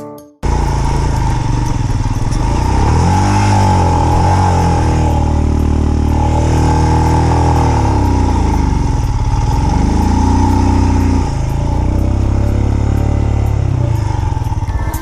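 Royal Enfield motorcycle's single-cylinder engine running under the rider, its pitch rising and falling several times with the throttle. It cuts in suddenly about half a second in, and a steady high hum runs along with it.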